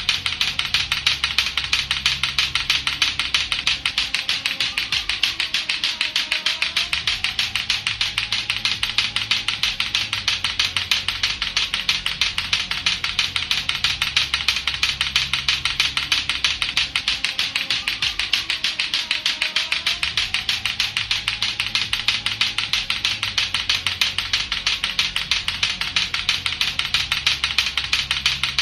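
Latto-latto clacker toy: two hard plastic balls on a string knocking together in a fast, even, unbroken run of sharp clacks.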